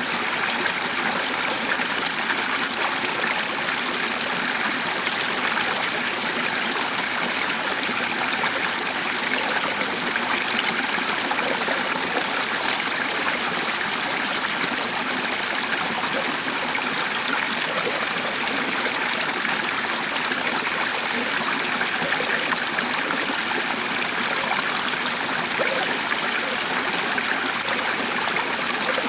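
A stream of running water flowing steadily, a continuous even rush with no pauses.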